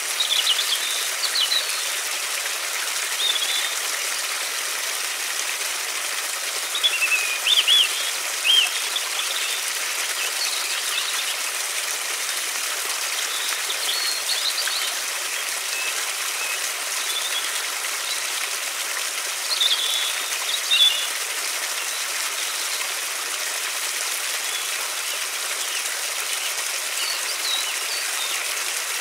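River water flowing in a steady, even hiss, with small birds chirping now and then in short, high clusters of calls.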